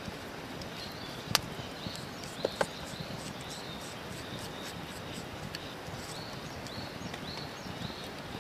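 Wood campfire crackling, with a few sharp pops, the loudest about a second and a half in and a pair at about two and a half seconds. A faint high chirping repeats throughout.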